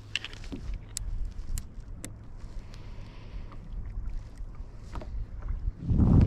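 Kayak sound on open water while drifting: low wind rumble on the microphone and water noise against the hull. A few sharp clicks come in the first two seconds, and a louder low rush swells near the end.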